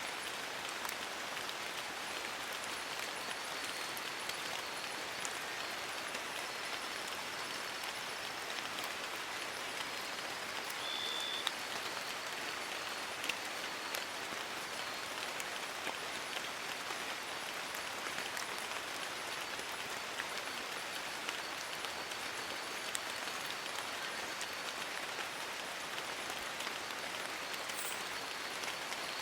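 Steady rain falling on forest leaves: an even hiss dotted with scattered ticks of single drops.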